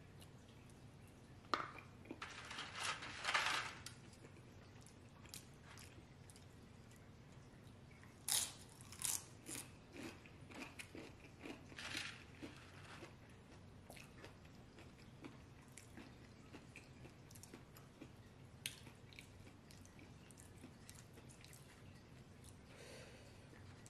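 A person chewing mouthfuls of burrito-bowl food, with crunchy bites in two spells: one about two to three seconds in, and a longer run from about eight to thirteen seconds in.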